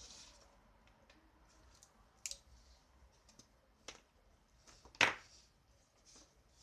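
Light clicks and brief scraping sounds of small hard objects being handled, with three sharper knocks, the loudest about five seconds in.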